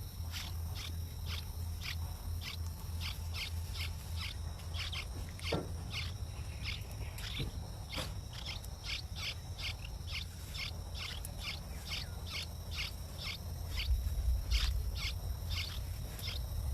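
A small bird calling with short, sharp chirps repeated steadily at about three a second, over a steady low hum.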